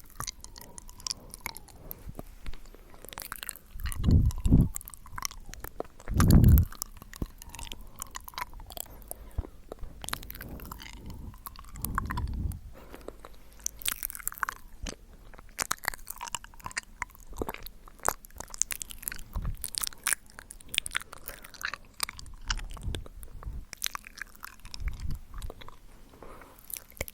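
ASMR mouth sounds close to the microphone: irregular wet clicks and smacks of lips and tongue, with a few louder, deeper bursts near the microphone about four, six and twelve seconds in.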